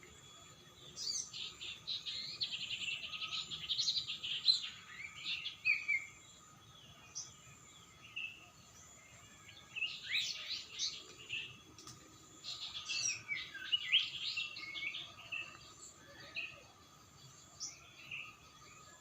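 A songbird singing fast, varied warbling phrases in three bouts, about a second in, around ten seconds in and from about twelve to sixteen seconds in, with short single calls between. A faint steady high tone runs beneath.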